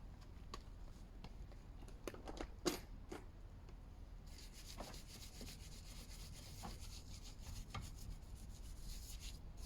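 Faint, irregular rubbing and scrubbing strokes of hand-cleaning a car, with a few sharper scrapes about two to three seconds in and a steady faint hiss from about four seconds on.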